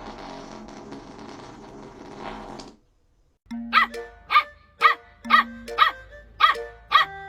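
A dense, buzzing sound for nearly three seconds, then a short silence. After that a dog barks in a steady run, about two sharp barks a second, over background music.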